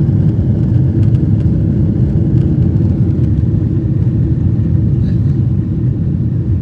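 Steady low rumble of cabin noise aboard a Boeing 777-224 airliner, the drone of its engines heard from inside the cabin.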